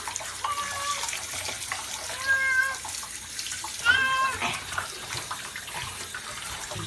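Domestic cat meowing three times, short level calls, the third the loudest, over a steady hiss of running tap water.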